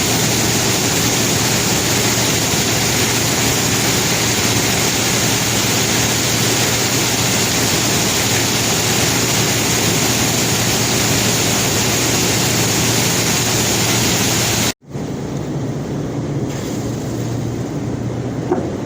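Conveyor belt carrying rock, a steady rushing noise with a low hum under it. About 15 s in it breaks off for an instant and goes on quieter and duller.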